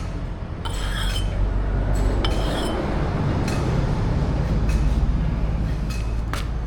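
Metal pieces clinking and being tapped together, a handful of sharp strikes that ring briefly, over a steady low machine hum.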